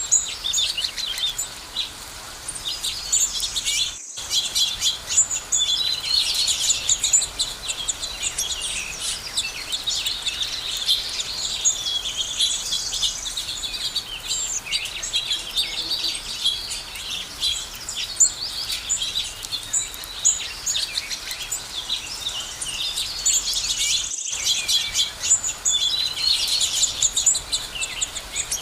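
Many small birds chirping and calling at once in a dense, continuous chorus of quick high notes. The sound drops out for an instant twice, about 4 seconds in and again near 24 seconds.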